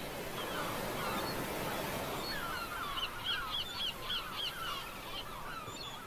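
A bird calling in a rapid run of short, harsh, repeated notes, loudest in the middle, over the steady wash of ocean waves breaking on rocks.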